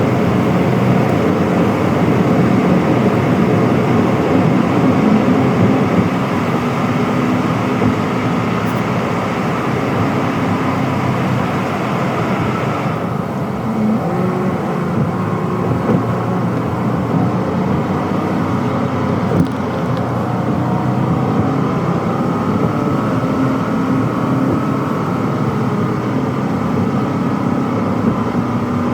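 Car driving, heard from inside the cabin: a steady rumble of road and engine noise. The higher hiss drops away suddenly about thirteen seconds in.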